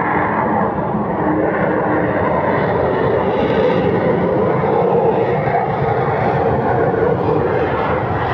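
F-35 Lightning II jet engine running with a loud, steady noise.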